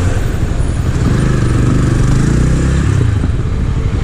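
Minsk SCR 250 motorcycle engine running close by at low revs, a steady low engine note.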